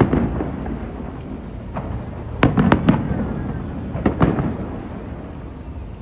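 Aerial fireworks shells bursting: a bang at the start, a quick run of several bangs about two and a half seconds in, and a couple more around four seconds, each followed by a low rolling echo.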